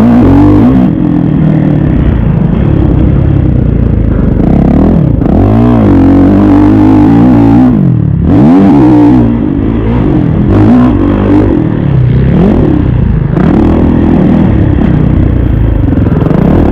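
Kawasaki KX450 four-stroke single-cylinder motocross bike engine, ridden hard, revving up and falling off again and again as the throttle is opened and closed through the track's turns and jumps. Loud throughout.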